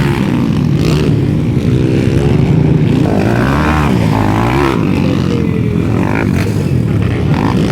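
Several underbone motorcycles racing on a motocross track, their small engines revving up and down, the pitch rising and falling as they accelerate, shift and pass.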